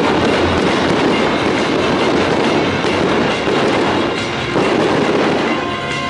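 Fireworks going off in a continuous dense rush of crackle and rumble, with music coming in near the end.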